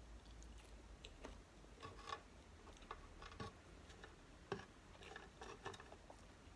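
Faint, irregular clicks and ticks of a person eating close to the microphone: soft mouth and chewing sounds, with a sharper click about 2 s and 4.5 s in.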